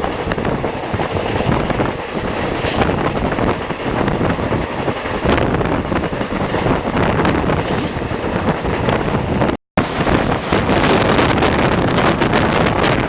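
Passenger train running at speed, heard from on board, with wind buffeting the microphone over the steady rumble of the wheels on the track. About two-thirds through the sound cuts out for an instant, and afterwards the wind and track noise is louder.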